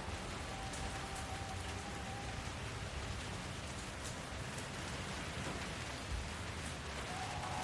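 Steady rain falling, with scattered drops ticking on surfaces. A faint held tone sounds briefly early on and again near the end.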